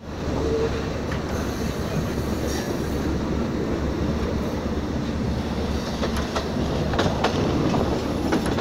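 A moving train running on the rails, heard from an open carriage window: a steady rumble and rattle, with the wheels clicking over rail joints several times in the second half.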